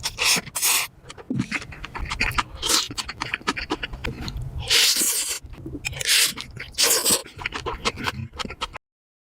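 Close-miked eating: several loud slurps of noodles, each about half a second, with wet chewing and smacking between them. The sound cuts to silence just before the end.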